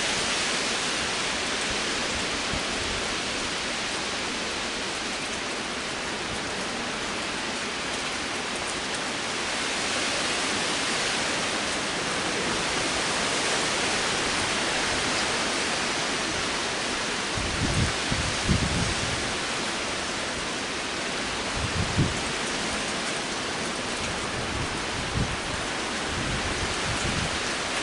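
Heavy rain and high wind in a storm: a steady hiss of rain, with a few low thumps of wind gusting on the microphone, mostly in the second half.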